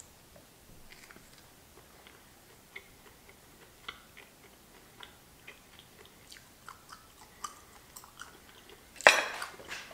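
Faint, scattered wet clicks of fingers pulling apart boiled raccoon meat and of chewing a mouthful. A short loud burst comes near the end.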